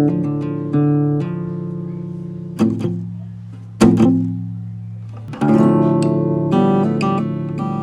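Background music: an acoustic guitar strumming chords, a handful of strums about one to one and a half seconds apart, each chord left ringing and fading.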